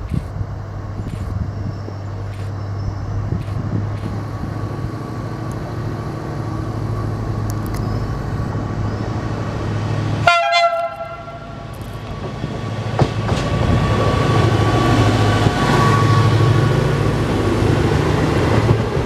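Diesel railcars SA106 and SA123 running with a steady low engine drone. About ten seconds in a short horn blast sounds, and from about thirteen seconds the engines get louder as the train pulls away.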